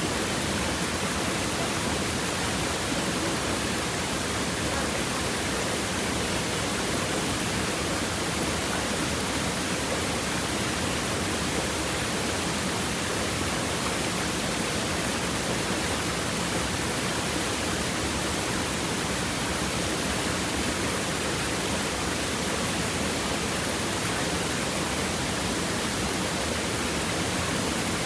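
Stream water flowing over and between river stones, a steady, even rush with no breaks.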